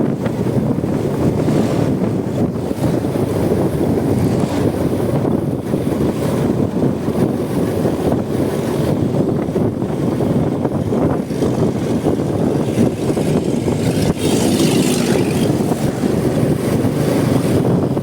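Wind buffeting the microphone over the steady running and road noise of a Honda Supra X 125 motorcycle at speed, with a brief burst of hiss near the end.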